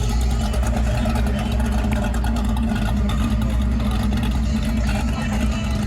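Steady low hum of an engine running at an even speed.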